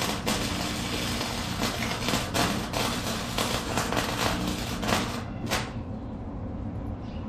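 Forney FC125 flux-core welder arc crackling and spitting as wire feeds into the weld, stopping about five and a half seconds in. A steady low hum continues underneath.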